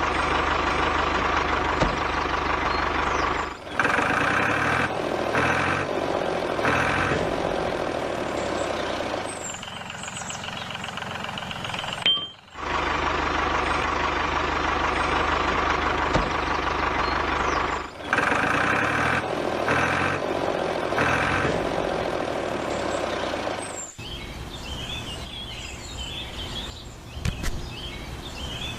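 Small engine running steadily, its note shifting in stretches, with bird chirps near the end.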